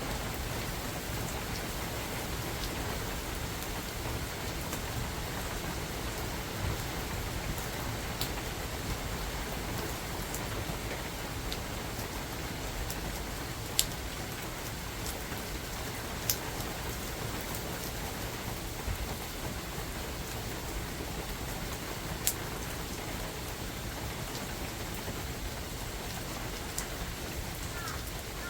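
Steady rain falling in a forest, an even hiss of many drops. A few single sharp taps stand out, the loudest about halfway through and again about two-thirds of the way in.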